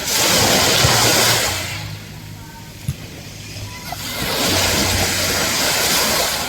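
Ocean waves breaking and washing in twice, each surge rising and falling over about two seconds, with a quieter lull and a brief click between them. A low steady hum runs underneath.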